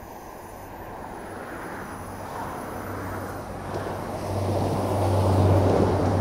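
Diesel multiple-unit passenger train approaching along the line, its engine hum and running noise growing steadily louder as it nears.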